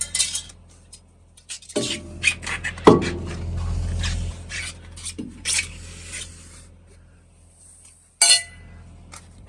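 Metal tools and parts clinking and clattering as they are handled under the truck, with one heavier metallic knock about three seconds in and a sharp clank near the end.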